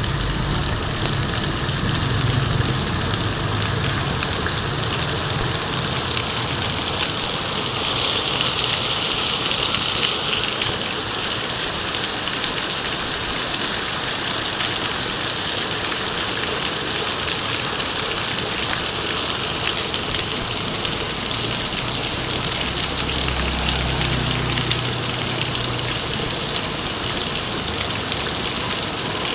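Heavy rain pouring steadily, with a vehicle engine running low underneath at times.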